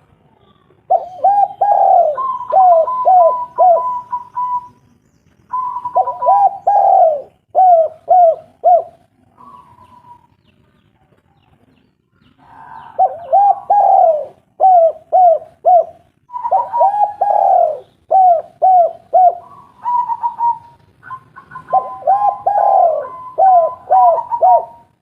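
Spotted dove (tekukur/derkuku) cooing in repeated phrases, each a longer falling coo followed by three or four short quick coos, with a higher held note running over several phrases. About five phrases with short pauses between them.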